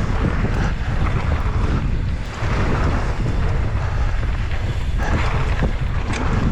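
Wind buffeting the microphone of a mountain biker's action camera at speed downhill, a loud, steady rumble, with the bike's tyres running over the dirt trail beneath it.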